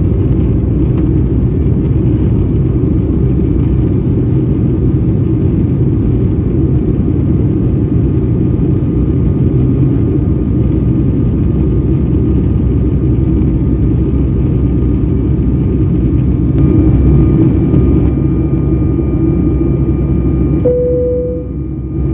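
Boeing 757-200 cabin noise in climb: the steady roar of the jet engines and rushing air heard from an economy seat. A faint steady whine joins about two thirds of the way in, and a short clear tone sounds near the end.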